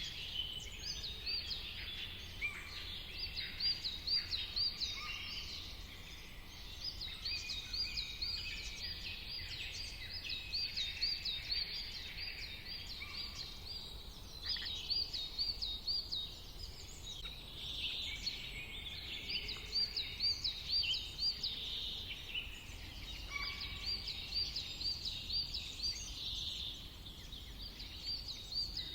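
Several birds singing together, one repeating a quick series of high chirps every few seconds over the others' mixed calls, with a steady low rumble beneath.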